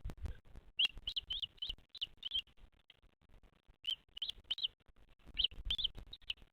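Bird chirping: short, high, arched chirps in quick runs of three to six, with pauses between the runs. Low rumbling thumps come at the start and again near the end.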